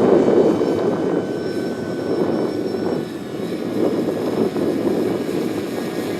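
Radio-controlled model airplane flying, its motor and propeller running with a steady whine over a fluctuating buzz that swells and fades as it passes.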